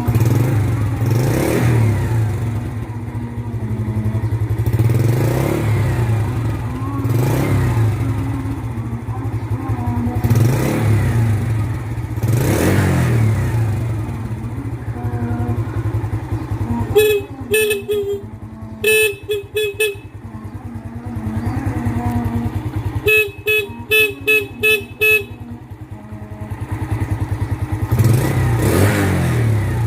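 Motorcycle engine running steadily, swelling louder every few seconds. About halfway through, a horn sounds in two runs of short, quick beeps, roughly six or seven beeps each.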